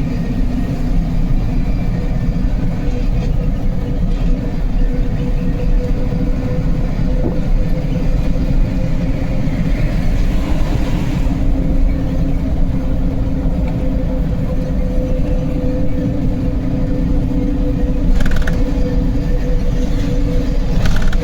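Truck engine running steadily under way, a constant low drone with a steady hum. A brief rush of noise comes about halfway through, and two short knocks come near the end.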